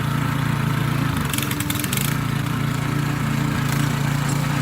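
Single-cylinder 170-type petrol engine of a walk-behind tiller running under load, a little unevenly, which the operator puts down to it being low on fuel. About a second in the engine note dips briefly and a short rattling clatter comes through.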